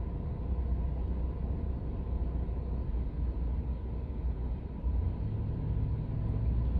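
Car engine and cabin rumble heard from inside the car, a low steady drone; about five seconds in, a steady engine hum comes up above it.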